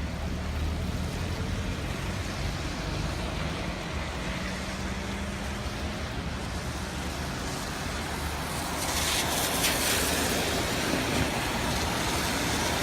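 Rain falling, with a vehicle engine running steadily beneath it. The rain's hiss grows louder about nine seconds in.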